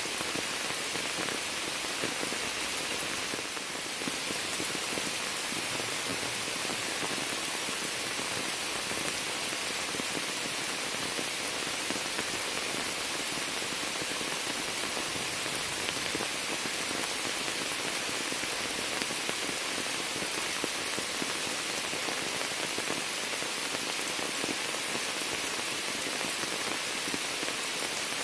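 Steady rain falling onto a sheet of standing water and the leaves of a bush, a dense, even patter of drops that does not let up.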